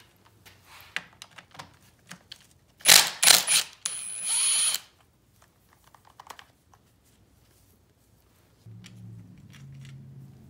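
Small metal engine parts and tools clicking and clinking, then a loud clatter about three seconds in, followed by about a second of a whirring power tool with a high whine. A low hum comes in near the end.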